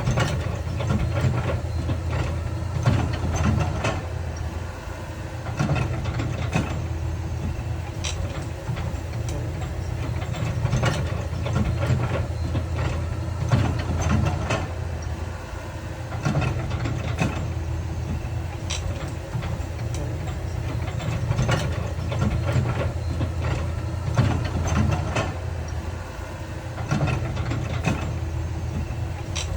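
Heavy earthmoving machinery's diesel engine running steadily, with many scattered clanks and knocks over it.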